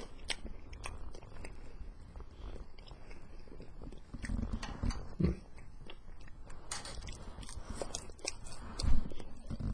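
Person biting and chewing a mouthful of breaded Boca vegan chicken patty close to the microphone: small wet mouth clicks throughout, with a few low thumps about four to five seconds in and a louder one near the end.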